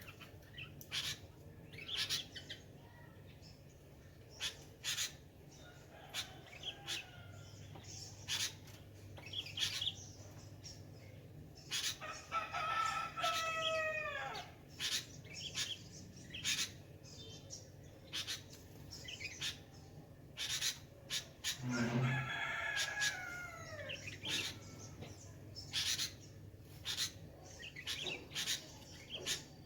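Aviary birds chirping with many short calls throughout. Twice, about twelve and twenty-two seconds in, a rooster crows, a long call falling in pitch.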